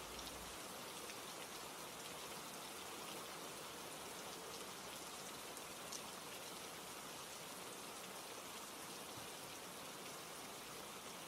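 Steady rain ambience: an even hiss of falling rain with scattered light drop ticks, and one sharper tick about six seconds in.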